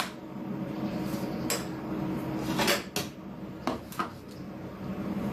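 A kitchen utensil clinking and knocking against a dish about half a dozen times, irregularly spaced, as sauce is mixed.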